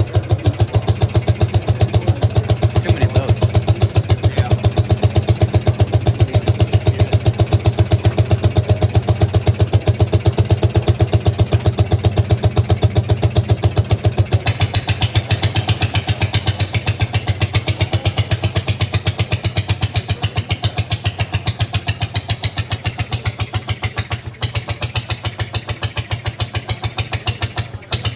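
A 1915 Caille-built Hiawatha rowboat motor, a single-cylinder two-stroke, running steadily with an even, rapid string of exhaust pops. From about halfway through, a hiss joins it, and the beat falters briefly twice near the end.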